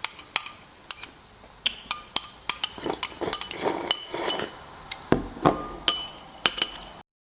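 Giant Momentum Latte bicycle clinking and rattling: irregular sharp metallic clinks, several with a short ringing tone, and a few softer rustles in between. The sound cuts off suddenly near the end.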